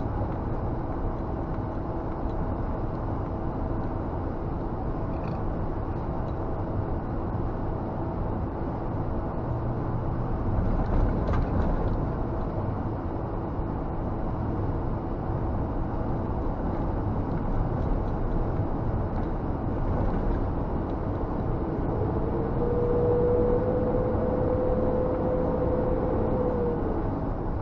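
Scania G460 truck running on the road, heard from inside the cab: a steady engine and road rumble. A steady whine comes in for a few seconds near the end.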